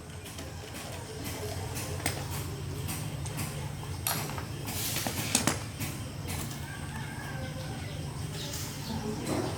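Scattered clicks and knocks, a cluster of them about halfway through, over a steady low hum.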